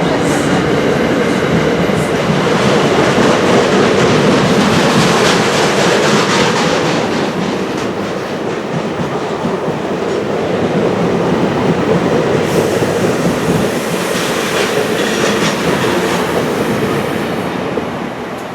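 A train rolling by on the rails, loud and steady, easing off near the end.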